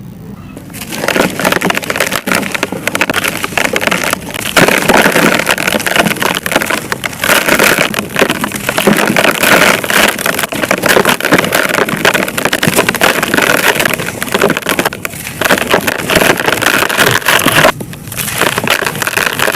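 Dry, crumbly material being crushed and crumbled, a dense continuous crunching and crackling, with a brief pause near the end.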